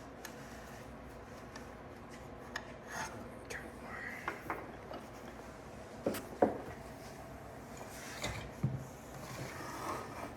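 Metal engine parts being handled and fitted during an engine rebuild: light scraping and rubbing, then a few sharp knocks, the loudest a little after six seconds in and two more about two seconds later.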